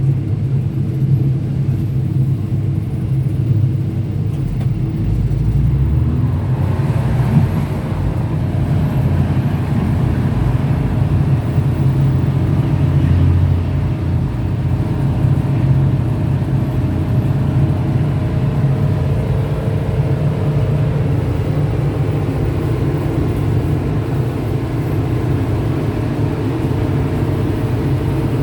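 A train running: a steady low rumble with humming tones. About six or seven seconds in, a brighter rushing noise joins it and stays.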